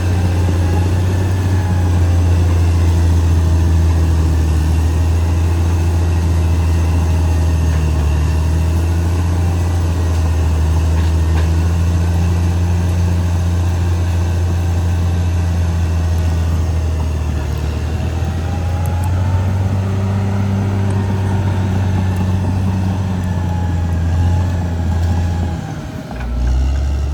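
Caterpillar D6R XL bulldozer's diesel engine running steadily with a deep drone. Its note shifts slightly about two-thirds of the way through and drops lower near the end.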